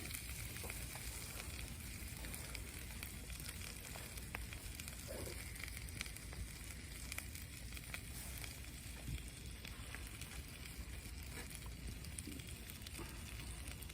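Campfire cooking: a steady low hiss with scattered small crackling pops.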